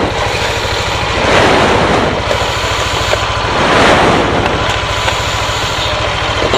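Water being poured and splashing in swells about every two seconds while the spilled coolant is washed off, over a steady low drone.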